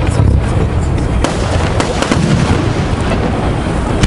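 Aerial fireworks display: shells bursting in a continuous low rumble, with several sharp cracks cutting through.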